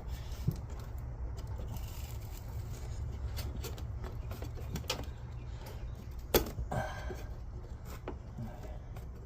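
Scattered light clicks and knocks of tools and parts being handled during repair work on a truck's windshield wiper linkage, with one sharp knock about six seconds in, over a steady low hum.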